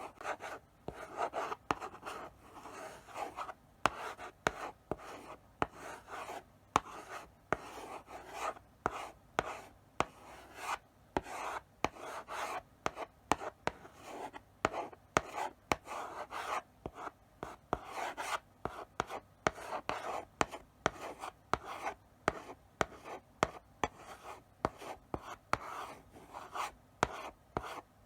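Chalk writing slowly on a blackboard: short scratching strokes, one after another, with sharp taps as the chalk meets the board between them.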